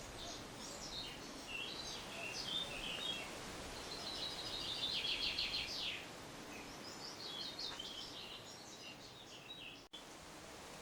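Birdsong over a steady outdoor hiss: varied high phrases, then a fast trill about four seconds in that ends in a downward slur, followed by another run of quick notes. The sound cuts out for an instant near the end.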